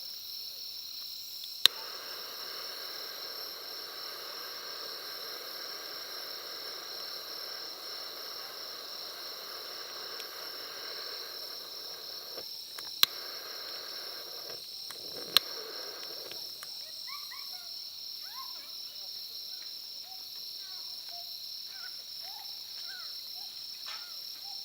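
Insects, likely crickets, chirping steadily in a high, finely pulsing trill. A steady hiss runs through much of the first two-thirds, and three sharp clicks stand out: one near the start and two about two seconds apart later on.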